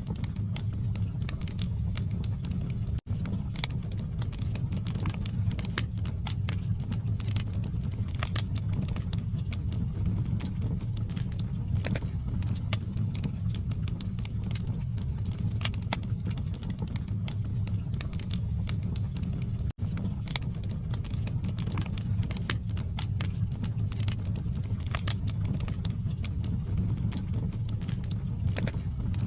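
Log fire burning in a fireplace: a steady low rumble of flame with frequent sharp crackles and pops. The sound drops out for an instant twice.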